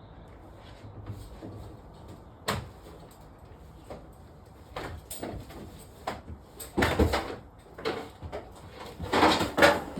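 Knocks and clatter of hard objects being handled and set down: a sharp knock about two and a half seconds in, a few lighter knocks, then louder rattling bursts around seven seconds and again near the end.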